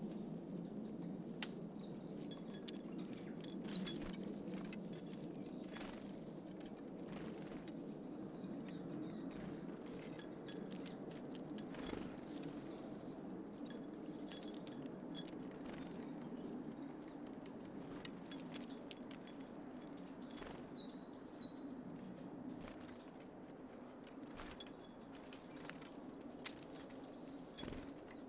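Small garden birds at a seed feeder: scattered sharp clicks and taps of pecking and landing, with a quick run of high, falling call notes about twenty seconds in, over a steady low background hum.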